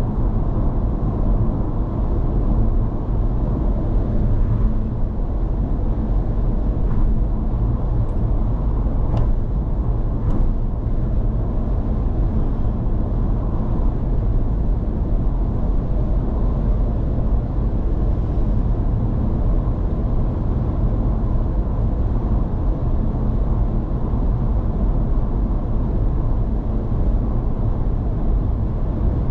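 Steady road and tyre rumble from a Honda ZR-V cruising on an expressway, heard from inside the cabin, with a few faint ticks about a third of the way in.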